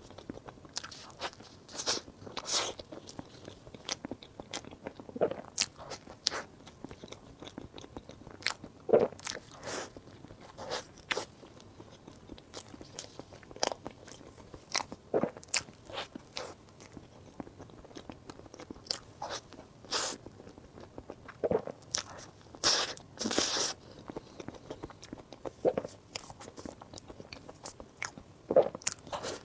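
Close-miked ASMR eating sounds: bites and chewing made up of many short, irregular crisp clicks and crunches, with a longer stretch of crunching about three-quarters of the way through.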